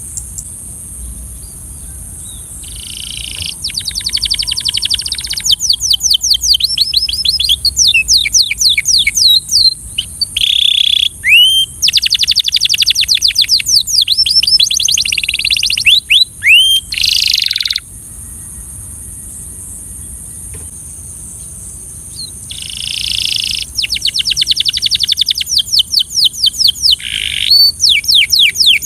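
Belgian canary singing: long rolling trills of rapidly repeated notes and quick sweeping whistles, in phrases broken by short pauses, with a longer pause of several seconds about two-thirds of the way through. A steady high hiss runs underneath.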